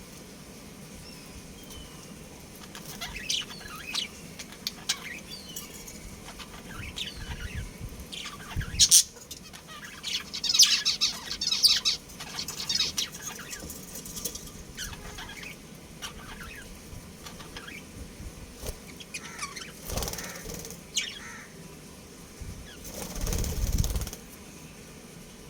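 Budgies chirping in short high twitters among scattered small clicks and scratches, with wing flutters about a third of the way in, again near 20 s, and a longer one near the end.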